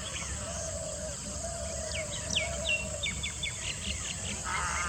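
Small birds chirping in the background, with a quick run of short, high, sharply falling notes in the middle. A faint steady outdoor noise runs underneath.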